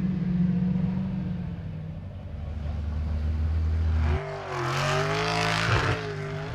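Race car engine running. About four seconds in the sound changes abruptly: the pitch swings up and down as the revs change, with a hiss over it.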